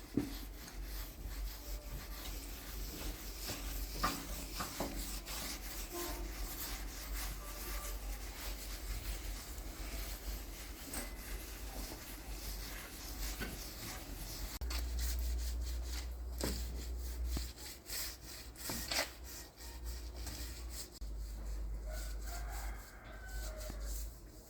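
Continuous hand scraping and rubbing on a hard surface, as in sanding or filing, with a few light knocks.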